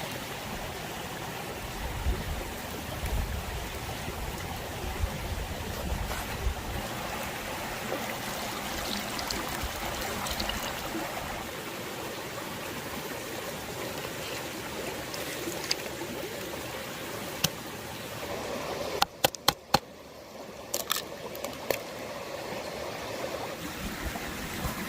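Steady rush of a flowing stream, with a low rumble through the first half. About nineteen seconds in, a quick run of four sharp clicks is followed by a few fainter ones.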